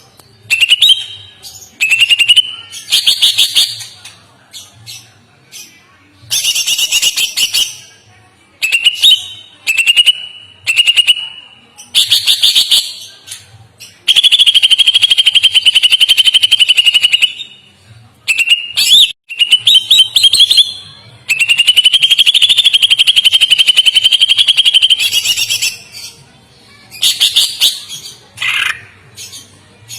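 Songbird singing loudly in short phrases of rapid notes, with two long, steady chattering trills of several seconds in the middle.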